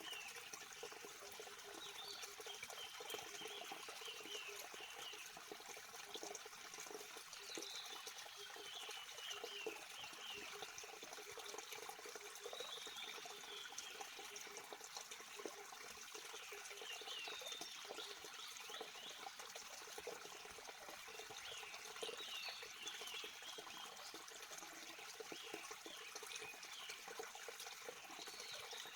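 Water flowing steadily, like a small forest stream, with small birds calling in short runs of chirps every few seconds.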